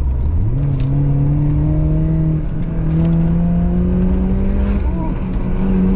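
BMW E36 318is four-cylinder engine heard from inside the cabin, accelerating hard on track. Its note jumps sharply just after the start, then climbs steadily as the car pulls through the gear, dipping briefly near the end before rising again.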